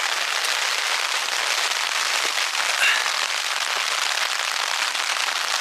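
Rain falling on the fabric of a Hilleberg Akto tent, heard from inside as a dense, steady patter.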